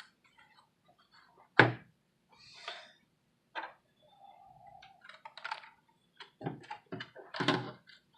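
Handling noise from an ergonomic split keyboard and its tilt-and-tent feet being set up: a series of knocks and thunks with some light rustling and clicks in between, the loudest knock about a second and a half in and another near the end.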